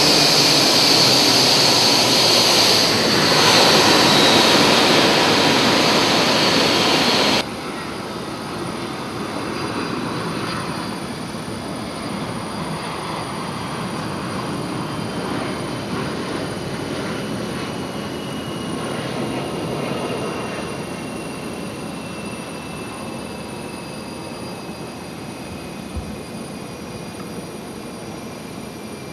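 Jet airliner engines running loud, cutting abruptly to a quieter engine sound about seven seconds in, with a thin whine that slowly falls in pitch.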